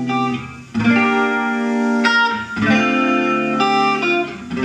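Guitar playing a short instrumental passage between sung lines: several chords are struck about a second apart and left to ring.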